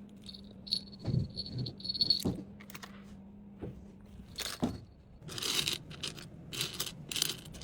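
Packaging and small items being handled by hand: a thin squeak in short pieces over the first two seconds, a few soft knocks as things are set down, then a run of crinkling rustles in the second half.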